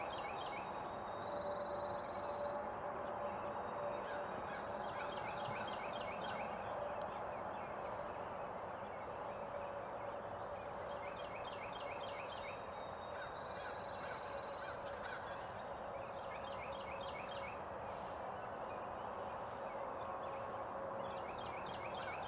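Wild turkey gobbler gobbling, five rattling calls about a second long, spaced unevenly a few seconds apart.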